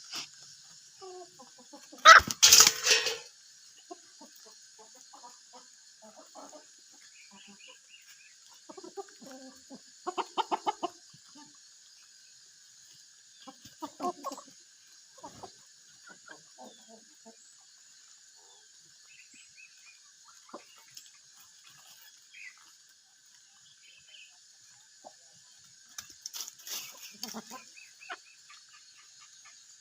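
Free-range chickens clucking in short scattered bursts, with one loud, sudden burst lasting about a second, about two seconds in. A steady high hiss runs underneath.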